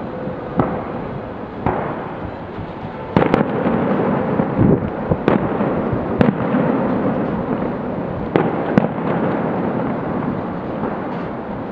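Fireworks going off: a run of about eight sharp bangs, a few at a time, over a steady wash of noise from the display.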